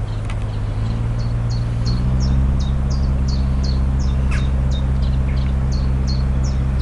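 A steady low engine hum that rises a little in pitch and loudness about one to two seconds in, with a bird calling over it in short, sharp chirps about twice a second.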